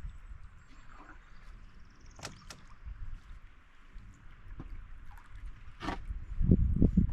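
Canoe being paddled: soft water sounds and a few sharp knocks of the paddle against the hull, then a run of loud low thumps and rumbles in the last second or so.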